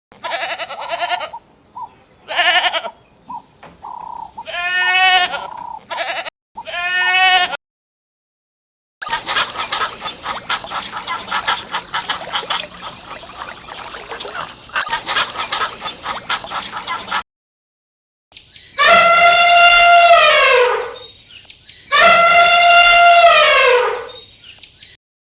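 Goats bleating in a series of separate takes. First come several short bleats, then a stretch of denser, rougher calling, and near the end two long, loud bleats that fall in pitch as they finish.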